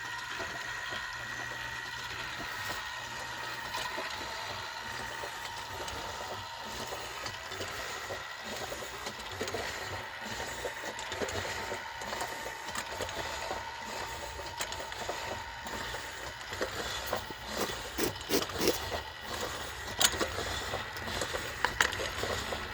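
Steam engine valve being lapped onto its seat: an irregular gritty rubbing and scraping over a steady hum, with a few sharper clicks and knocks near the end.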